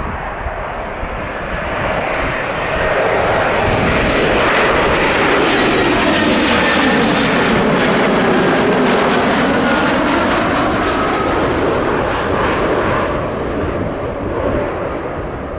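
An airliner passes close by, its engine noise swelling over a couple of seconds, holding loud for several seconds, then fading away. Wind rumbles on the microphone underneath.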